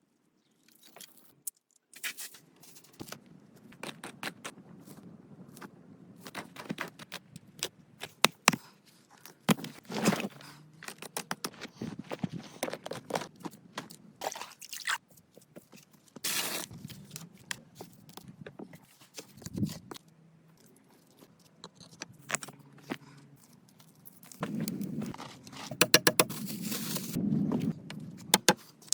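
Irregular scraping, knocking and clicking of hands-on work with tools and materials, busier and louder near the end.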